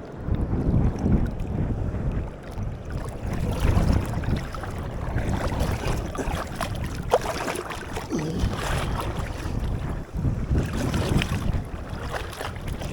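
Wind buffeting the microphone over water splashing and lapping around a small fishing boat that is being paddled and pushed along, in uneven surges.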